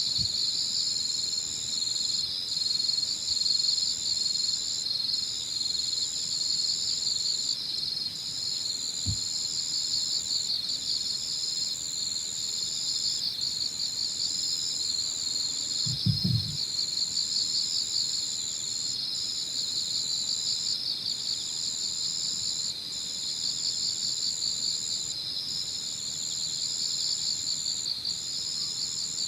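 Evening chorus of crickets. One high, steady trill breaks off briefly about every two seconds, over a dense, pulsing chorus of other insects a little lower in pitch. Two faint low bumps come about a third and halfway in.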